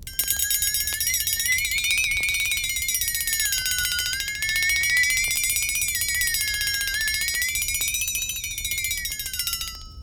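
A single high tone with many overtones, starting abruptly and wavering slowly up and down in pitch, then gliding down just before it stops near the end.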